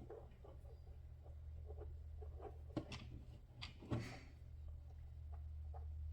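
Faint scattered clicks and taps of small hard parts being handled, a few sharper ones a little after halfway, over a low steady hum.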